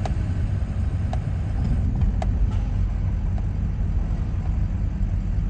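Steady low road and engine rumble of a car driving, heard from inside the cabin, with a few faint clicks.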